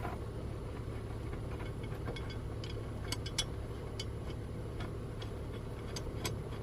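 Light, irregular metallic clicks and taps as a mower blade and its bolt are handled and fitted back on by hand, over a steady low hum.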